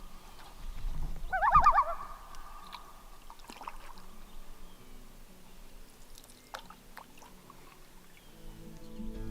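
Common loons calling across the lake: a long held wail note, then about a second and a half in a short, loud, rapidly wavering call. Acoustic guitar music comes in near the end.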